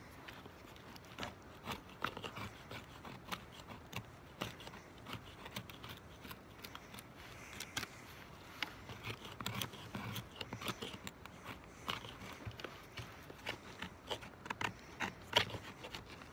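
Irregular small snaps, clicks and scrapes of dry twigs and kindling being broken and handled, growing busier in the second half.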